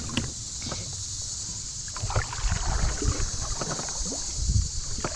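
Knocks, bumps and small water sounds of handling in a kayak, busiest from about two seconds in, over a steady chirring of insects.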